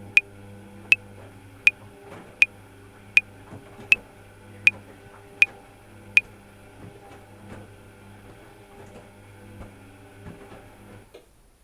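Metronome clicking at 80 beats a minute, nine sharp high clicks that stop about six seconds in. Under them a washing machine runs with a steady low hum that cuts off suddenly near the end.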